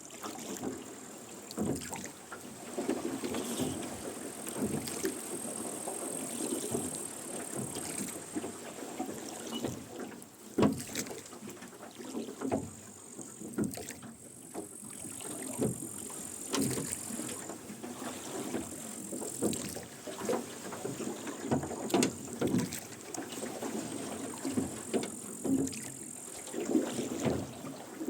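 A rowboat being rowed: the oarlocks creak and the oars splash with each stroke, about every two to three seconds.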